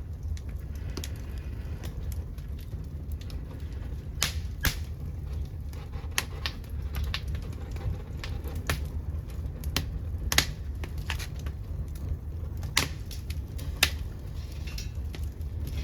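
Wood from an old futon chest burning in a secondary-combustion wood stove: irregular sharp crackles and pops, some of them loud, over a low steady rumble.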